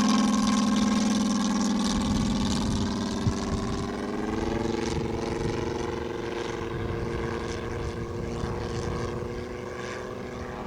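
Moki 250 radial engine of a quarter-scale RC AT-6 Texan running steadily in flight, driving its big scale propeller. About four seconds in its pitch steps up, and then the sound slowly fades.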